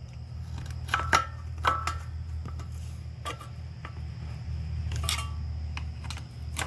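Tools clinking and tapping on the metal of a Honda 190 small engine while its valve cover is being worked loose: a handful of sharp metallic clicks with a short ring, the loudest about a second in and again near five seconds, over a steady low hum.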